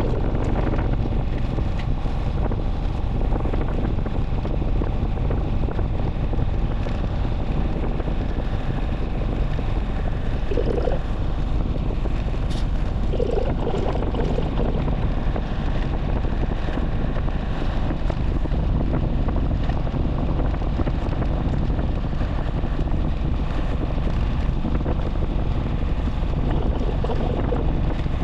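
Steady wind rumble buffeting the microphone of a motorcycle on the move, with a deep, even low rumble beneath. A couple of brief tones stand out about halfway through.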